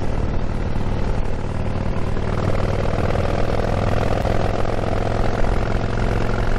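Harley-Davidson motorcycle's V-twin engine running steadily while riding.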